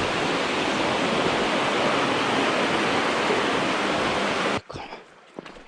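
Loud, steady rush of water from a mountain stream's rapids, cutting off abruptly about four and a half seconds in; after that, a few faint clicks and knocks.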